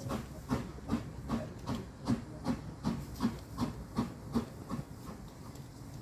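Steam locomotive exhaust beats: regular hissing chuffs about two and a half a second that die away after about four and a half seconds, over a low rumble.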